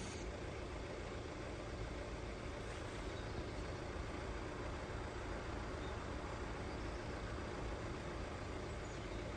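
Steady low rumble of road vehicles idling in a queue at a closed level-crossing barrier.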